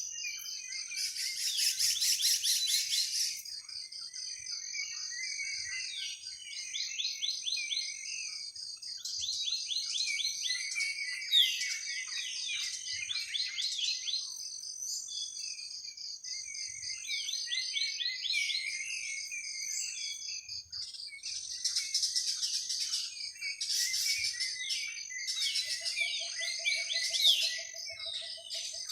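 A forest chorus of many birds chirping and trilling in rapid overlapping bursts over a steady, high, pulsing insect drone. Near the end a lower pulsed trill runs for about three seconds.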